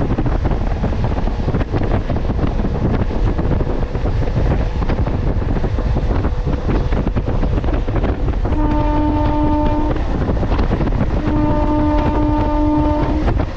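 MEMU electric train running at speed, a steady rumble with wind buffeting the microphone. A train horn sounds twice near the end, two steady blasts, the second longer.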